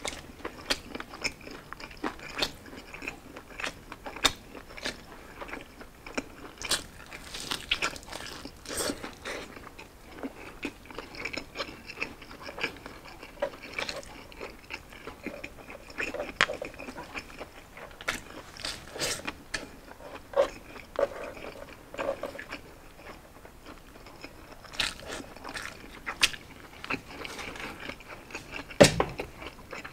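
Close-up eating sounds of crispy roasted pork belly: irregular crisp crunches of the crackling skin with chewing in between. One louder thump comes near the end.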